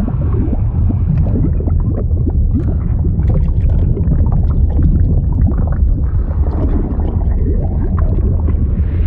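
Liquid bubbling and gurgling sound effect: a steady deep rumble with many small bubble blips popping through it.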